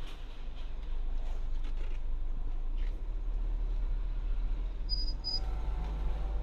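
Peugeot 508 SW driving, with a steady low rumble. Two short, high insect chirps come about five seconds in.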